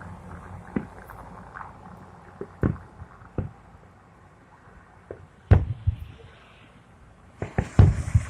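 Fireworks going off: a series of separate booms at uneven intervals, the loudest a little past halfway and a quick cluster near the end with a hissing crackle around it.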